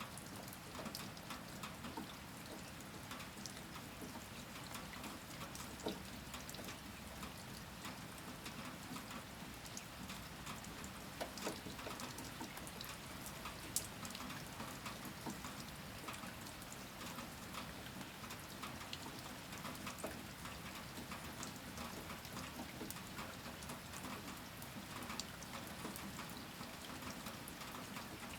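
Steady rain falling, with many close drops ticking on a surface and a few louder single drops standing out, most plainly about fourteen seconds in.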